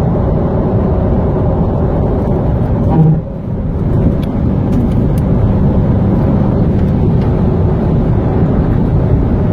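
Chevrolet Corvette C7 Z06 at highway speed: steady engine and road-noise drone, with a brief loud bump about three seconds in, after which the drone dips for a moment and then comes back.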